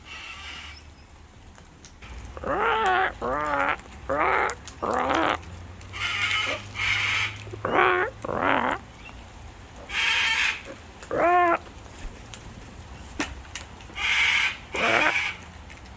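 Cockatoos calling: a run of short, arched squawks mixed with harsh screeches, starting about two seconds in and repeating every second or so.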